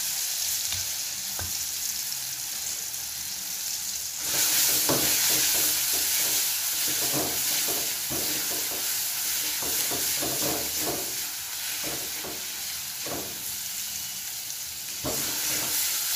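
Ground spice paste of garlic, shallots and candlenut sizzling in hot oil in a wok, fried until fragrant. A wok spatula scrapes and stirs it in irregular strokes, and the sizzle gets louder about four seconds in.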